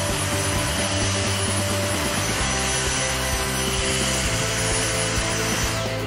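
Dyson DC59 Animal cordless stick vacuum running with a steady whir as its motorized floor head is pushed over a hardwood floor, over background music. The vacuum noise drops away at the very end.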